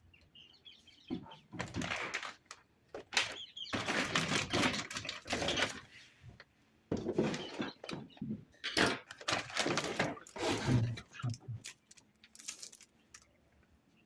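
Tools and packaging being handled during an unboxing: irregular bursts of rustling, with clicks and light knocks.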